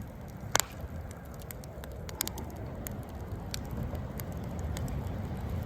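Wood campfire crackling, with scattered sharp pops, the loudest about half a second in and another about two seconds in, over a low steady rumble.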